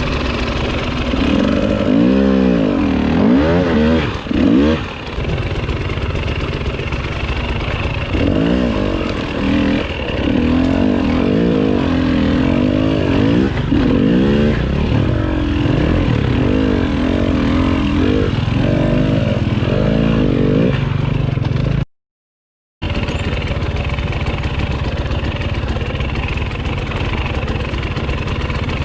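Enduro dirt bike engine revving up and down over and over while riding, with a steadier stretch after. The sound cuts out completely for about a second near the three-quarter mark.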